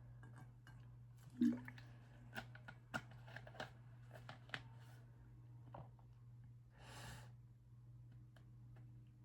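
Faint mouth and handling sounds of someone eating: a run of small clicks and knocks over a few seconds, then a single short breath about seven seconds in, over a steady low electrical hum.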